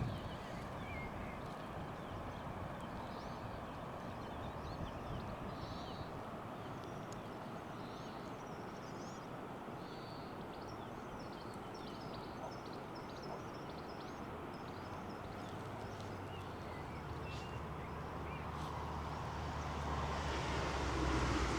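Small birds chirping in many short, quick calls over a steady background hiss. Near the end a low engine hum builds and grows louder as a vehicle approaches.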